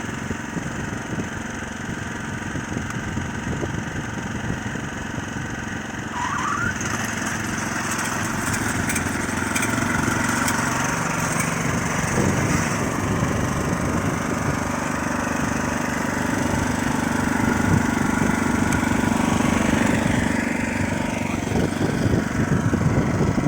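Neva MB23 walk-behind tractor engine running steadily, getting louder from about six seconds in as it works.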